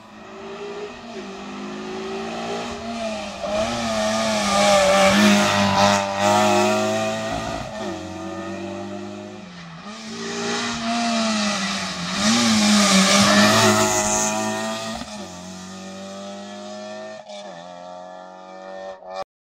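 Rally car engine running hard at high revs, its pitch mostly held and dipping briefly several times, swelling louder twice. It cuts off abruptly near the end.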